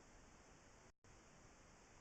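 Near silence: a faint, steady hiss that cuts out completely for an instant about a second in.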